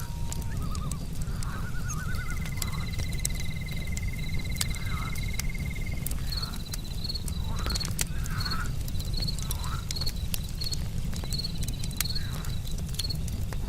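Wood fire crackling with scattered sharp pops, over night insects: a long even trill for a few seconds, then short high chirps repeating about once a second. Frogs croak intermittently underneath.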